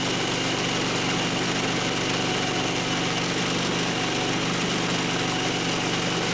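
Gasoline engine of a portable bandsaw sawmill running steadily at a constant speed.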